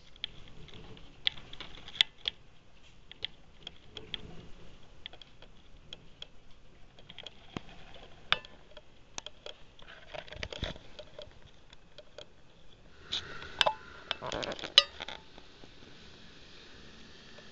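Irregular crunching and crackling close to the microphone from someone moving through deep snow with a handheld camera, with a denser, louder run of crunches near the end.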